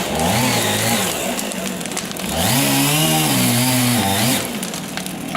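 Chainsaw engine revved up and back down twice, then running at a lower speed.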